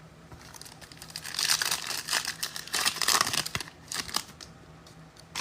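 A trading-card pack wrapper being torn open and crinkled by hand, a run of crackling and rustling from about a second in until near the four-second mark, with lighter rustles after.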